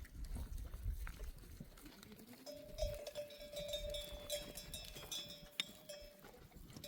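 Faint bells on a grazing flock of sheep and goats, with a sustained ringing tone and higher tinkling through the middle, and a few sharp knocks of hooves or bells.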